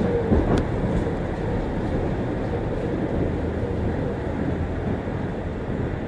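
Keio 6000 series electric train running, heard from inside the passenger car: a steady rumble of wheels on rail, with a couple of sharp clicks in the first second.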